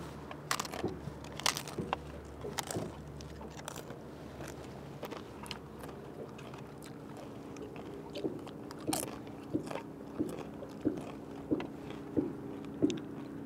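A crisp corn tostada topped with ceviche crunching as it is bitten, with several loud crunches in the first few seconds. Then steady chewing, with soft crunches coming a bit more than once a second in the last few seconds.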